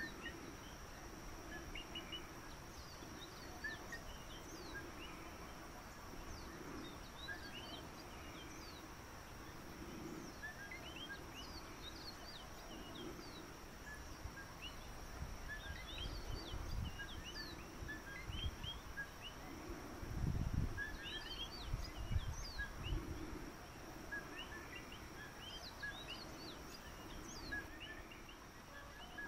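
Many small birds chirping in short, quick calls over a steady high insect drone, with a few low rumbles, the loudest about two-thirds of the way through.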